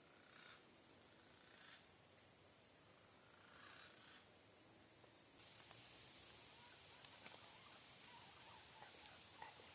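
Faint outdoor ambience dominated by a steady, high-pitched insect drone of crickets, which drops away sharply about five seconds in, with a few faint chirps near the end.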